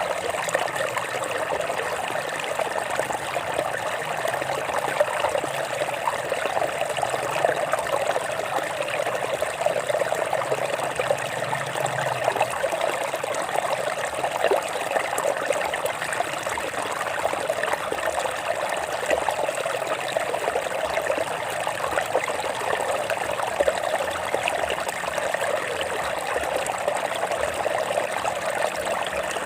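Stream water flowing and trickling over rocks, steady and unbroken.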